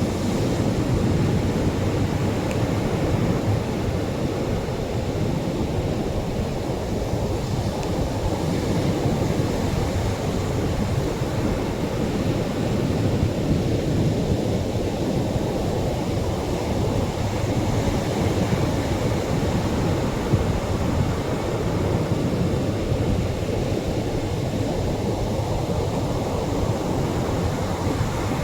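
Atlantic surf breaking and washing on a sandy beach: a continuous low rushing noise that swells and eases gently every few seconds, with no single wave standing out.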